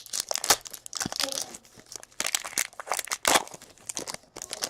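Trading cards and their packaging being handled: a quick, irregular run of crinkles and flicks as the cards are flipped through.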